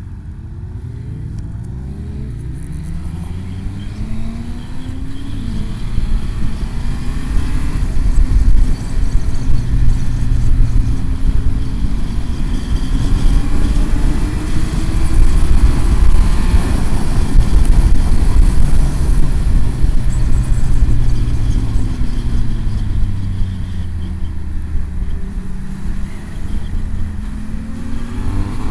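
Motorcycle engine pulling hard through several gears, its pitch climbing with each gear, then running loud at speed with heavy wind rush over it. In the latter part the engine note falls away as the bike slows, and near the end it accelerates again.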